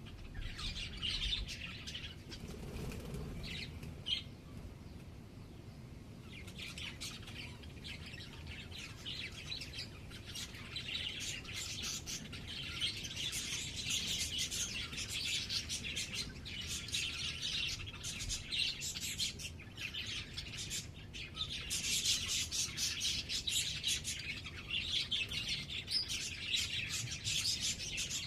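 Small birds chirping in quick, dense twitters that ease off a few seconds in and then grow busier and louder through the second half.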